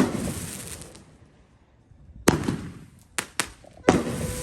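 Consumer fireworks going off one after another. A loud bang at the start fades over about a second, another bang comes a couple of seconds in, then two quick sharp cracks and one more bang near the end.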